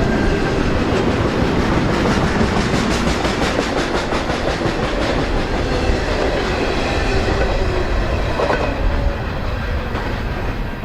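Freight cars of a BNSF intermodal train rolling past, a loud, steady rumble of steel wheels on rail with rhythmic clicking over the rail joints.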